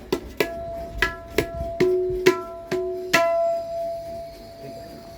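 Tabla tuned to D#, played as a series of sharp ringing strokes at one steady pitch. The last stroke, about three seconds in, is left to ring out and fade.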